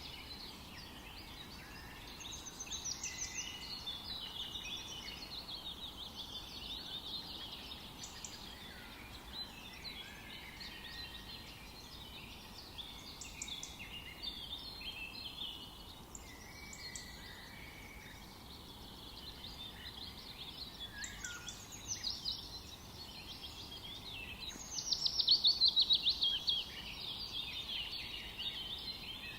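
Several wild birds singing and calling at once in a forest chorus, short chirps and trills overlapping throughout over a faint steady background hiss. Near the end one bird gives a loud, rapid trill that falls in pitch.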